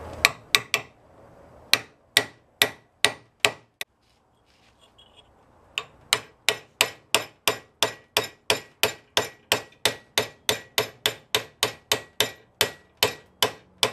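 Hammer blows driving a freshly hardened and tempered carbon-steel cold chisel into a half-inch steel bar, each strike a sharp metallic clink with a short ring. A few quick blows and a short run are followed by a pause of about two seconds, then a steady run of about three blows a second.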